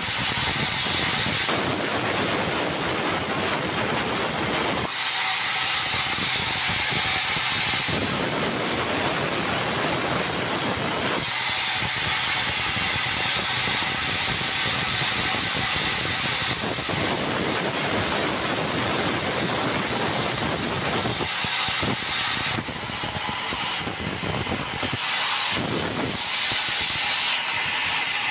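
Band sawmill running and sawing meranti timber: a steady hiss-like machine noise, its deeper part dropping out and coming back every few seconds as the cut changes.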